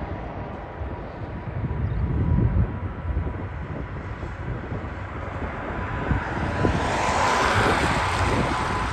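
Jet airliner's engines growing louder as it passes, a rushing roar that builds from about halfway through and peaks near the end.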